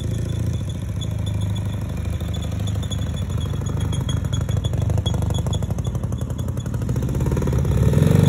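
Dnepr MV-650 sidecar motorcycle's flat-twin engine running, with a repeated high squeak coming from the sidecar. The engine revs up near the end.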